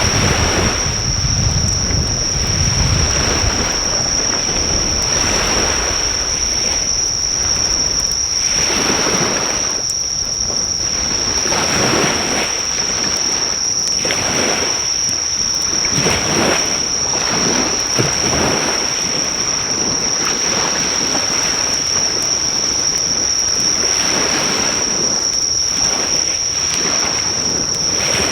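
Waves washing on the shore in repeated surges every couple of seconds, under a continuous high-pitched insect trill that never breaks. The crackle of the driftwood fire is faint beneath them.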